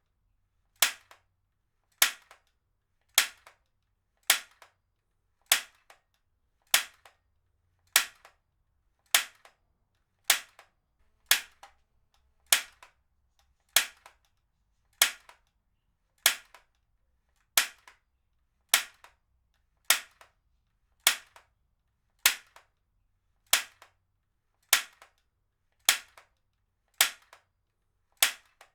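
Heavy-duty stapler being fired again and again, a sharp snap about every 1.2 seconds, roughly two dozen times, each stroke followed by a faint second click.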